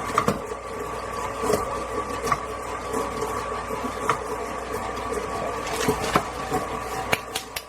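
Electric kitchen mixer running steadily while mixing cupcake batter, with scattered sharp clicks; the motor stops near the end.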